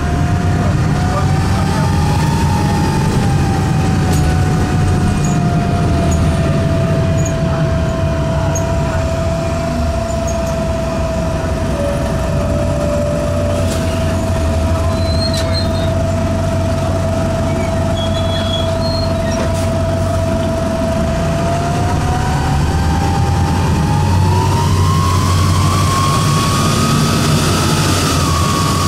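Diesel bus engine (Detroit Diesel Series 50) running under way, heard from the rear of the bus. A deep rumble sits under a loud, clear whine from the engine/transmission compartment, which the owner puts down to a bad turbo. The whine holds a steady pitch for most of the time, then rises over the last several seconds as the engine picks up.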